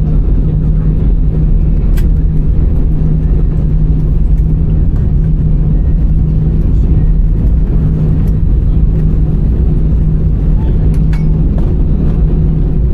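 Airbus A320 cabin noise on the ground after landing: a steady low rumble of engines and airframe with a constant hum running under it.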